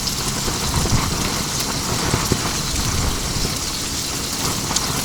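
Windstorm gusts buffeting the tent, heard as a steady noisy hiss with uneven low rumbling from wind on the microphone.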